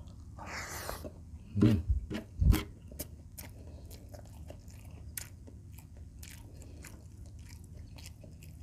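Close-miked eating: a bite into fried food, then chewing with wet, smacking mouth clicks. A few heavy low thumps come around two seconds in.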